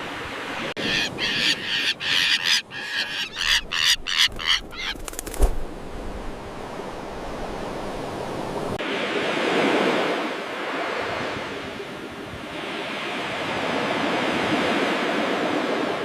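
Common terns calling in a quick run of short, harsh calls for about five seconds, then surf washing in, swelling and ebbing twice.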